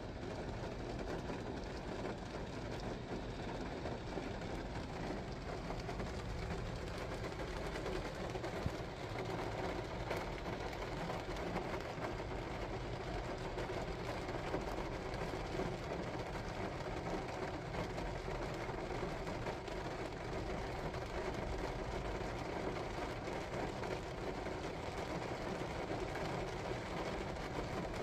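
Steady rain falling on a car, heard from inside the cabin.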